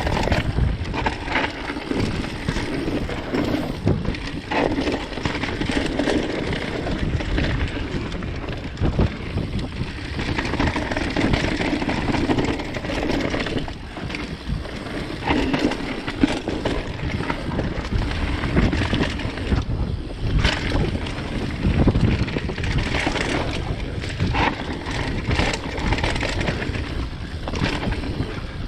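Mountain bike being ridden along a dirt singletrack: steady tyre and wind noise with frequent clicks and rattles from the bike over bumps.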